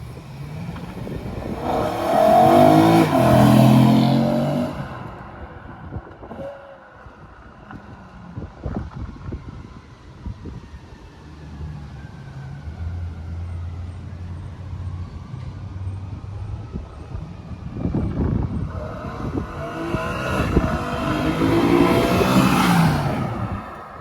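BMW E92 M3's 4.0-litre V8 through an M Performance exhaust, revving up hard twice with a lower steady engine note between the two pulls.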